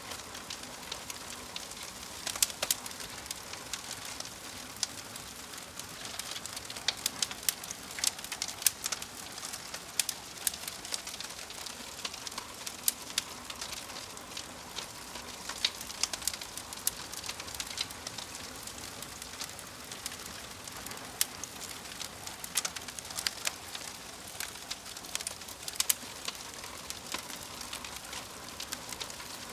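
Wood fire burning in a fireplace, with irregular crackles and pops from the logs over a steady hiss.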